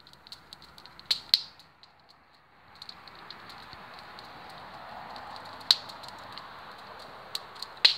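Campfire crackling: irregular sharp pops, the loudest about a second in, near the middle and near the end, over a hiss that grows from about three seconds in.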